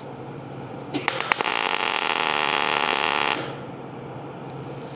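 A MIG welder laying a short tack: a few clicks, then about two seconds of steady crackling hiss from the arc that stops abruptly.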